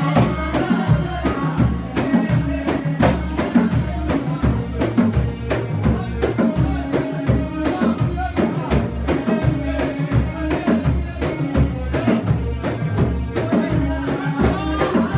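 Samri music: frame drums beaten in a steady, driving rhythm under group singing.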